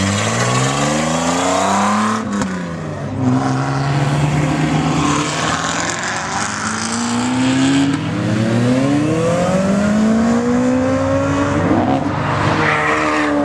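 Car engines accelerating hard, the engine note climbing in pitch over a second or two, dropping, then climbing again several times in a row.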